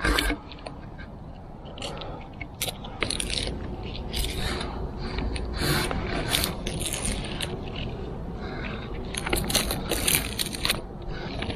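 Footsteps crunching and scraping through wet leaves and twigs on a forest floor, irregular and uneven, busiest near the end.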